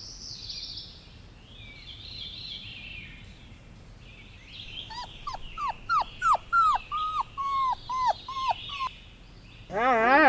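A dog yipping: about a dozen short, high calls, each falling in pitch, at roughly three a second, starting about halfway through. Faint high chattering comes before it.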